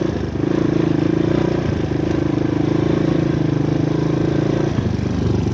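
A 2022 RVM CZ 250T enduro motorcycle's 250 cc four-stroke engine running under way at a steady pitch. It briefly dips three times: near the start, near two seconds in, and near the end.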